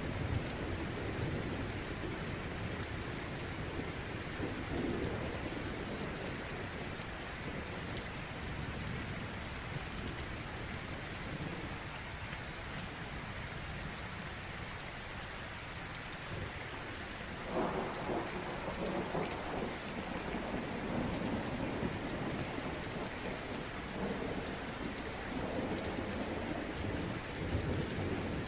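Steady heavy rain, with a low rolling rumble of thunder that comes in suddenly about two-thirds of the way through and keeps rumbling to the end.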